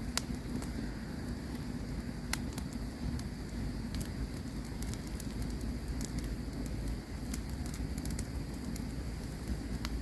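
Campfire crackling: irregular sharp pops and snaps over a steady low noise from the burning fire.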